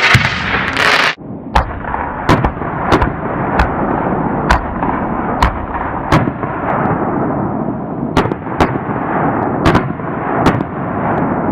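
Aerial fireworks going off: a dozen or so sharp bangs at irregular intervals, about one a second, over a steady hiss. About a second in, a brighter, denser hiss gives way abruptly to this run of bangs.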